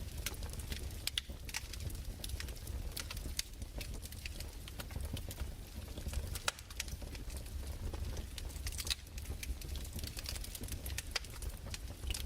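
Wood fire crackling: irregular snaps and pops over a steady low rumble.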